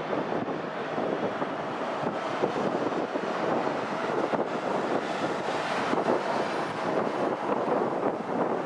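Jet airliner engines running at a distance, a steady rushing noise, brighter for a moment about five seconds in, with wind buffeting the microphone.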